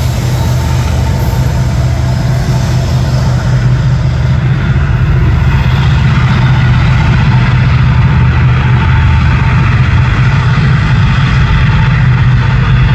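Diesel-electric freight locomotive engines running with a steady low drone, with the rumble of the freight train growing a little louder as it draws near.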